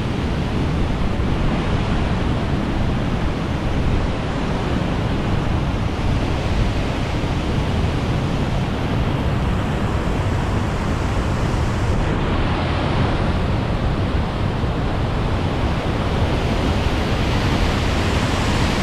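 High Force waterfall on the River Tees: the steady roar of water pouring down through its rock chute and crashing into the pool below.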